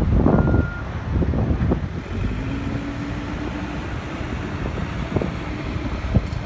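Heavy earthmoving machine working the sand. One back-up alarm beep sounds in the first second, then the engine runs steadily with a low rumble and a humming tone, and two sharp clanks come near the end.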